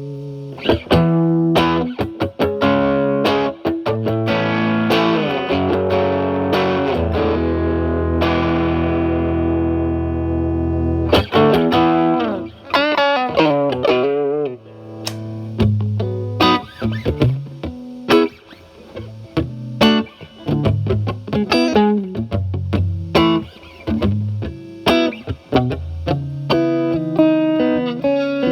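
Electric guitar, a Stratocaster with alnico single-coil pickups, played through a Paul Cochrane Timmy overdrive with its gain set at 12 into a Marshall Valvestate amp's clean channel: lightly overdriven picked notes and chords. About a third of the way in, a chord is left ringing for a few seconds, followed by a wavering, bent lick.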